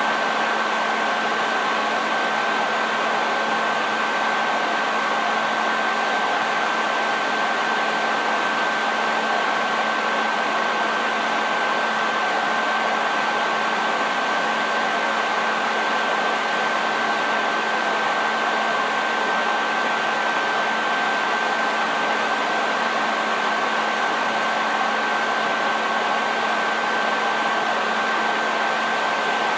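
Hair dryer running steadily: a constant blowing hiss with a steady high whine and a low motor hum.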